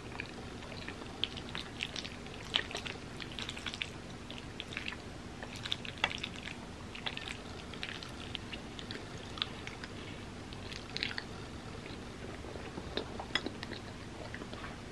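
Close-miked chewing of a mouthful of creamy macaroni pasta: many small, irregular wet mouth clicks and smacks. A metal spoon scoops pasta from the bowl.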